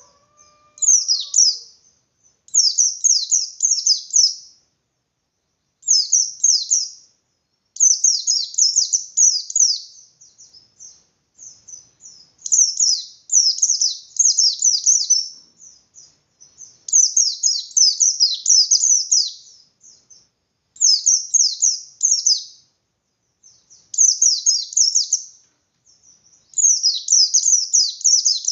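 White-eye (pleci, 'bustomi' type) singing its insistent, open-beaked 'ngalas' song: bursts of rapid, high, downward-slurred chirps, each lasting one to two seconds and repeated after short pauses. This is the wild-style fighting song that keepers use to provoke other white-eyes into answering.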